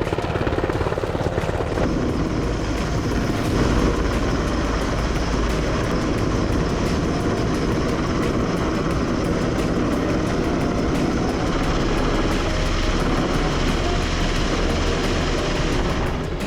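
Helicopter running loud and steady close by, its rotor chop and engine sound continuous.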